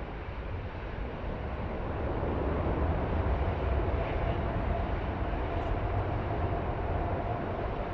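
Airbus airliner's jet engines running as it comes in to land, growing louder about two seconds in, with a faint steady whine over a deep rumble of wind on the microphone.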